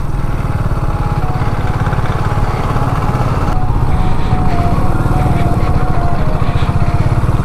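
Motorcycle engine running steadily at low speed, its firing pulses close to the microphone as the bike rolls slowly.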